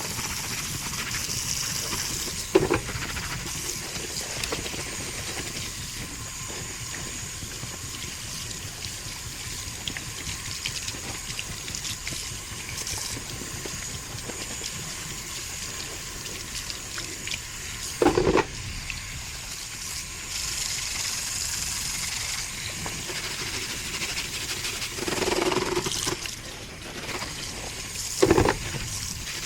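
Car air filter being scrubbed and sloshed by hand in a tub of water, a steady swishing and splashing like washing clothes, with three short knocks.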